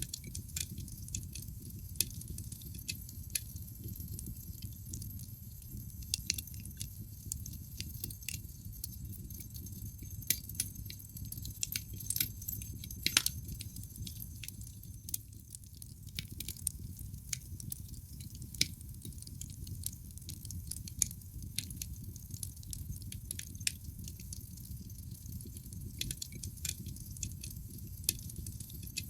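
Wood fire burning in a fireplace: irregular sharp crackles and pops from the logs over a low, steady rumble, with the loudest snap about halfway through.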